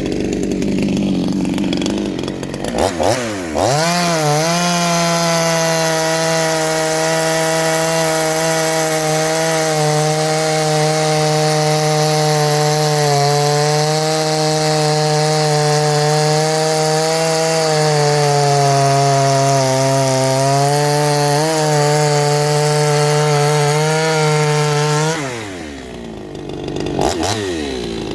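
A 58cc Chinese two-stroke chainsaw revved a couple of times, then held at full throttle as one steady high-pitched note for about twenty seconds, its pitch sagging briefly twice, before dropping back to idle with one more short rev near the end.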